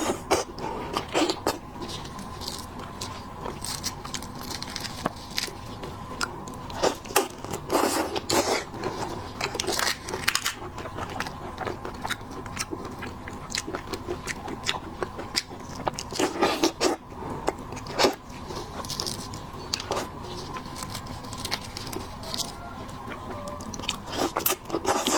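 Close-up eating sounds of someone biting and chewing seafood, with irregular sharp crunches and clicks. A faint steady hum sits underneath.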